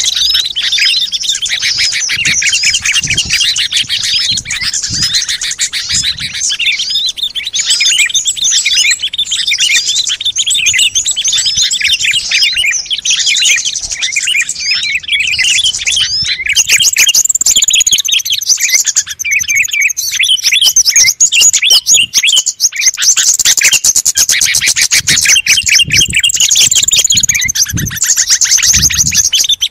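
Dense chorus of many small songbirds chirping and twittering rapidly and without pause, a mixed lure recording used to call in small wild birds.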